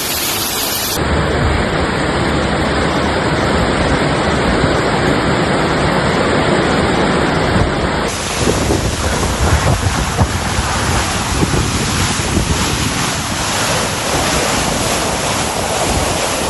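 Loud, steady rushing noise of a storm: rushing water with wind buffeting the microphone. Its character shifts about a second in and again around eight seconds, and it grows rougher and more rumbling after the second change.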